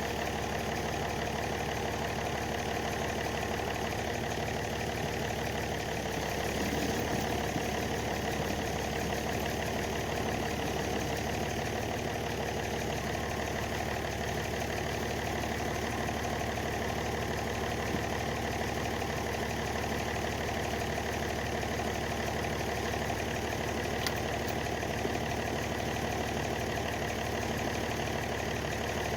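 Heavy tractor engine idling steadily, with a slight swell about seven seconds in.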